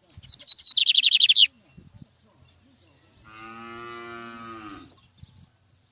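A songbird sings loudly: three short, high whistled notes followed by a fast trill, lasting about a second and a half. A couple of seconds later a cow gives one fainter, drawn-out moo of about a second and a half.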